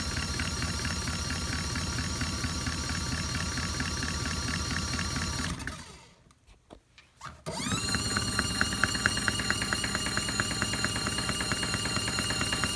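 Mini folding washing machine's motor running with a steady hum and fast pulsing. Past the middle it winds down to a stop for about two seconds, then starts up again, as the cycle turns the drum both ways, forward and backward.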